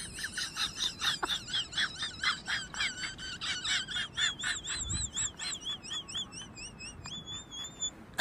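A small bird singing: a rapid series of high chirps, about four to five a second, that turns about halfway through into a wavering, warbling trill.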